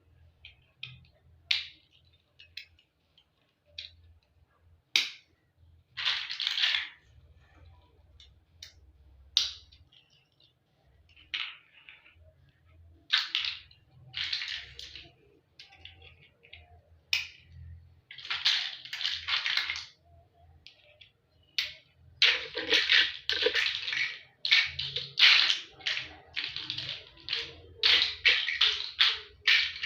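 Toy building blocks clicking and rattling as pieces are handled and fitted together: scattered single clicks and short rattles at first, then a busy run of rattling in the last third.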